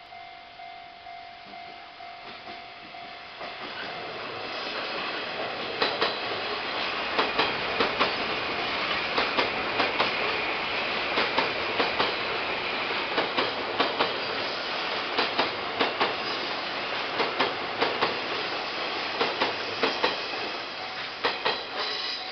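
JR 183-series electric multiple unit passing close by, its wheels clicking over rail joints in quick double clicks against a steady rumble. At the start, before the train's noise covers it, a level-crossing warning bell rings with an even pulsing tone.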